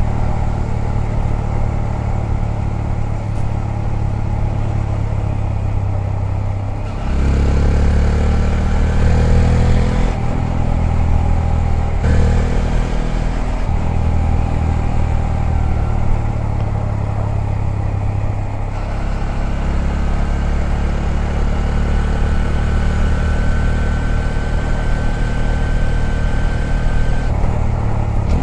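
Honda Grom's 125 cc single-cylinder four-stroke engine running under way, heard from the bike itself. About a quarter of the way in the engine gets louder, and its note changes a few more times as the throttle and gears change.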